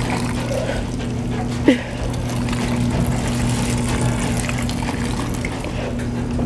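Washing machine filling with water: a steady rush of water over a low, even hum. A brief, sharp squeak with falling pitch comes a little under two seconds in.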